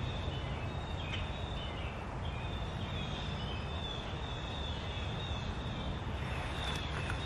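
Birds chirping in a quick series of short high notes, over a steady low rumble of outdoor background noise.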